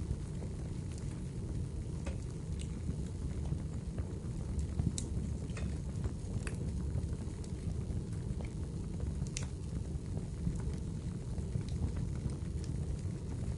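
Wood fire crackling in a fireplace: a steady low rush of flames with scattered sharp pops and snaps, a few louder ones about five, six and a half and nine seconds in.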